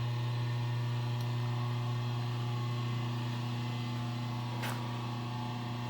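Steady low electrical hum with fainter higher overtones, and a faint click about four and a half seconds in.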